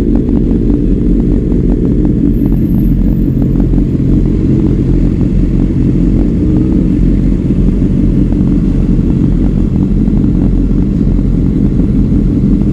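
Honda CBR600RR's inline-four engine idling steadily through a Leo Vince aftermarket exhaust, with a light rapid ticking over the low note.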